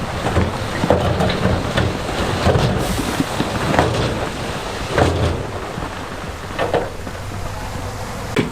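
Heavy diesel earthmoving machinery running with a low rumble while loose stones clatter and knock irregularly, with the sharpest knocks about one, four and five seconds in.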